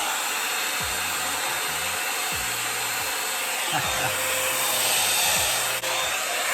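Revlon One-Step hair dryer brush running steadily on its low setting: a constant rush of blown air with a faint steady hum.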